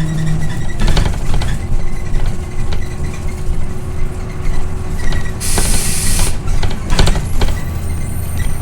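Scania OmniLink I city bus on the move, heard from inside: a steady low engine and road rumble, scattered rattles and knocks from the body, and a sharp hiss of compressed air lasting about a second midway.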